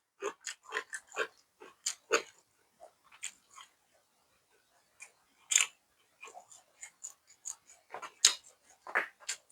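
Close-up chewing and crunching of mouthfuls of food, with crisp vegetables among it: irregular wet clicks and crunches, pausing briefly about four seconds in, with a few louder crunches in the second half.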